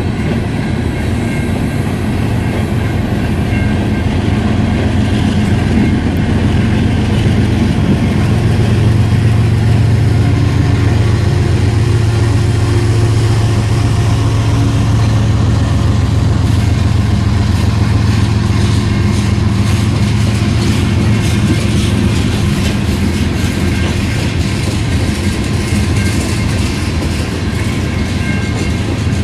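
Long freight train of hopper cars rolling past, with a continuous low rumble of wheels on rail that swells and eases. In the later part the wheels click over the rail joints, with a faint steady squeal in the background.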